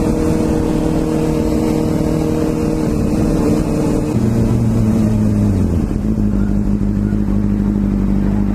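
Sportbike engine running steadily under the rider, its pitch dropping in two steps, about four seconds in and again about six seconds in, then holding at the lower pitch.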